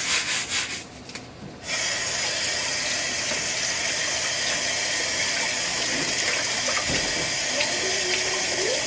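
Quick rhythmic scrubbing strokes for about the first second, then, after a short pause, water starts running from a tap and runs steadily.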